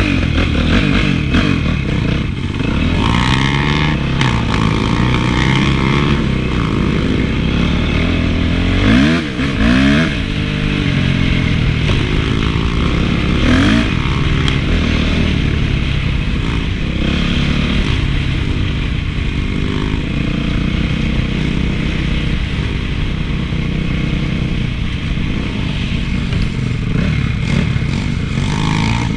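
Honda CRF450 motocross bike's single-cylinder four-stroke engine being ridden, its pitch rising and falling as the throttle opens and closes, with quick revs about nine and thirteen seconds in.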